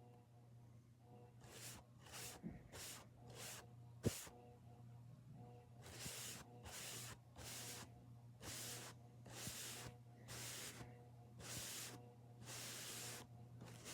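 Makeup being applied close to the microphone: a run of soft hissing swishes, about one or two a second, over a faint steady electrical hum.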